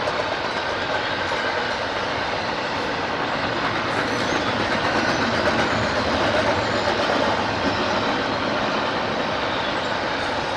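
A train rolling past on the rails: a steady, loud rush of wheels and cars, swelling slightly midway.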